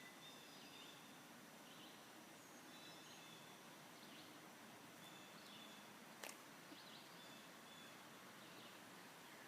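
Faint outdoor ambience with small birds calling: short high chirps and trills, repeating every second or so. A single sharp click comes a little after six seconds in.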